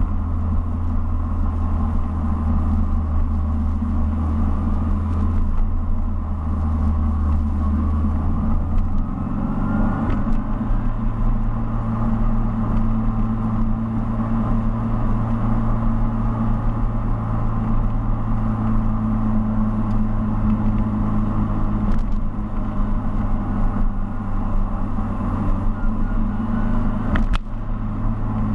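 Mini's engine running steadily on the move, heard from inside the car. About nine seconds in, its low drone steps up in pitch and holds there.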